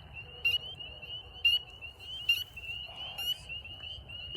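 Chorus of frogs calling in rapidly repeated high-pitched notes. A few louder, closer calls stand out about half a second, a second and a half, and two and a quarter seconds in.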